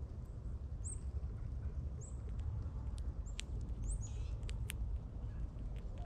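Small birds giving short, high chirps about once a second, with scattered sharp ticks, one brief buzzy call near the middle, and a steady low rumble.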